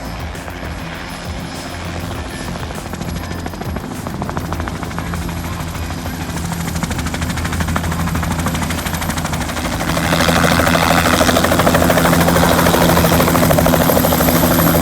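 Helicopter turbine and rotor running, with a fast, even blade chop; the sound grows steadily louder, stepping up clearly about ten seconds in.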